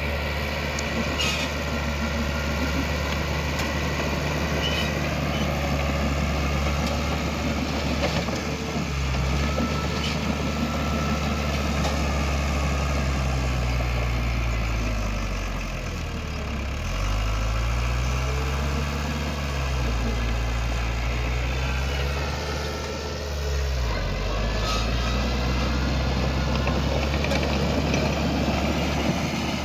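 Heavy diesel earthmoving machine running steadily, its engine note dipping and recovering three times, around 9, 17 and 23 seconds in, as it comes under load and eases off.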